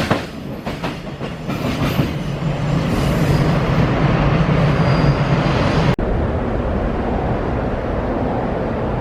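Freight train passing close by: wheels clicking over the rail joints in quick repeated beats, settling into a steady low rumble. About six seconds in, the sound cuts abruptly to a duller, steady rail rumble.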